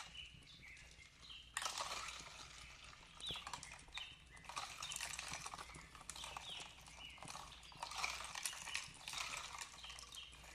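Fire crackling with dense small pops and hiss. The crackling is sparse for the first second and a half, then picks up. Birds chirp short high notes now and then, over a steady low rumble.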